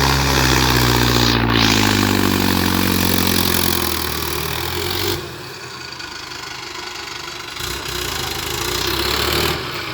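Mahindra tractor's diesel engine running, its pitch sinking slowly over the first few seconds. About five seconds in it drops suddenly to a lower, quieter run, then builds up again near the end.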